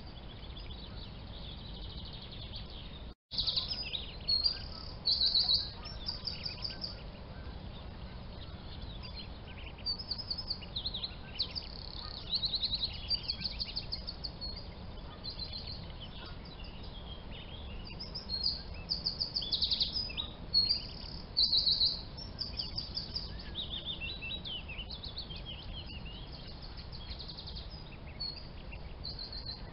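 Birds chirping in many short, high, rapid trills, over a steady low background hiss. The sound cuts out for an instant about three seconds in.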